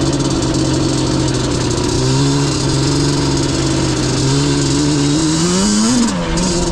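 Yamaha Banshee's twin-cylinder two-stroke engine running at a steady speed, then revving up about five seconds in and easing off just after.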